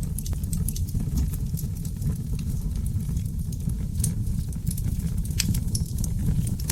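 Wood fire in a fireplace, crackling with sharp, irregular pops over a steady low rumble of flames.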